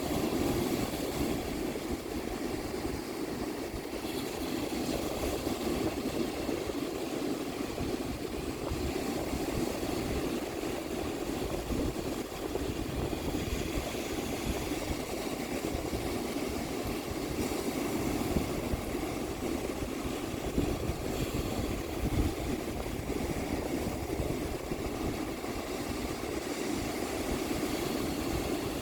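Ocean surf washing onto a beach in a steady rush, with wind gusting across the microphone as a low, uneven rumble underneath.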